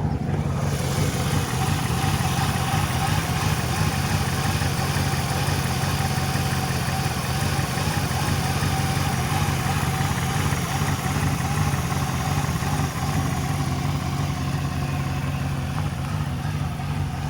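1996 Lincoln Continental's 4.6 V8 petrol engine idling steadily, with a steady hiss that joins about half a second in.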